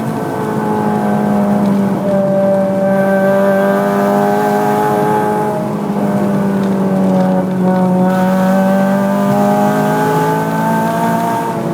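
Honda Civic Type R FN2's 2.0-litre four-cylinder engine, breathing through a Gruppe M intake and a Martelius exhaust, running under throttle. The engine note climbs slowly, drops about halfway through, then climbs again near the end.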